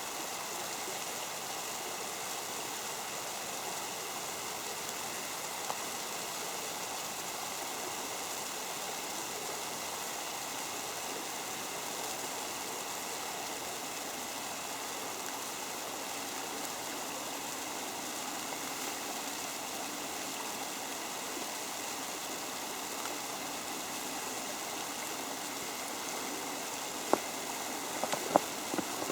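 Creek water flowing steadily over its bed, a continuous rushing. A few sharp taps come near the end.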